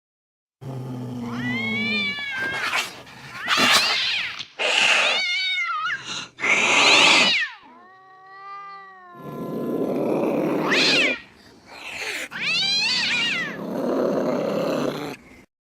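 Angry domestic cat caterwauling: a run of drawn-out, wavering yowls that rise and fall in pitch, broken by harsher, noisier growling yowls, with short pauses between calls.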